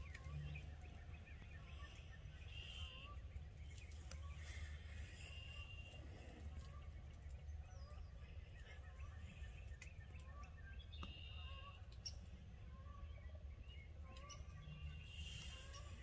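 Faint songbirds singing: a short high trill comes four times, a few seconds apart, among small repeated chirps, over a low steady rumble.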